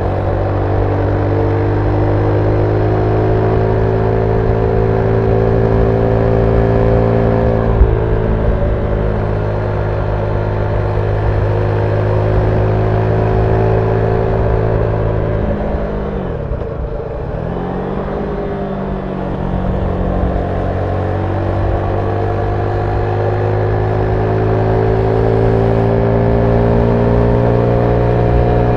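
Zontes 310V's single-cylinder engine, on its stock exhaust, heard on board while riding. The revs climb slowly under way, with a sharp click about eight seconds in. Around the middle the revs fall away and pick up again, then climb steadily toward the end.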